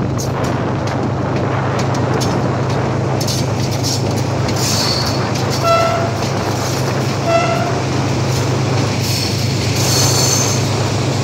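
Diesel train running steadily with a continuous low engine drone and rumble, its horn giving two short toots about a second and a half apart near the middle. High wheel squeal comes and goes as it rounds the curve toward the tunnel.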